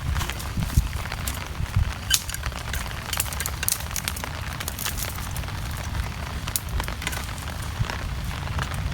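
Steady rain with a low rumble, over the scattered sharp crackles and pops of a wood campfire.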